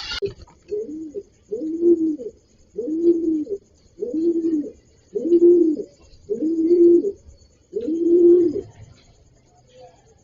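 A pigeon cooing: a series of about seven low, rounded coos, each under a second long and a little over a second apart.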